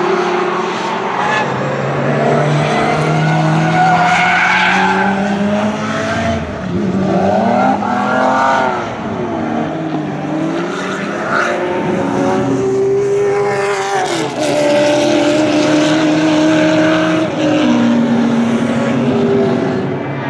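Several racing car engines running hard at once, their pitch climbing and falling as the cars accelerate, shift gear and pass; one engine climbs and drops off sharply about two-thirds of the way through.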